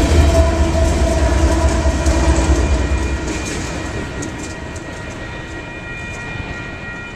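Freight train rolling past, with a heavy low rumble that drops off about three seconds in. A quieter rolling noise follows, with a faint steady high-pitched whine and a few clicks from the wheels.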